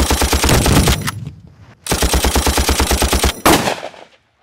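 Two bursts of rapid automatic gunfire, each about a second and a half long with a short pause between, followed by a single loud crack near the end.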